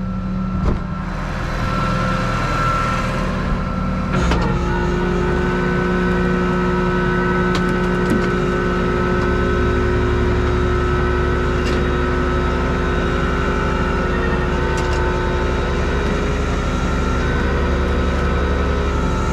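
Flatbed tow truck's engine running with the hydraulics working to lower a car off the bed. About four seconds in there is a clunk, then a steady whine over a louder engine rumble, with a few faint clicks.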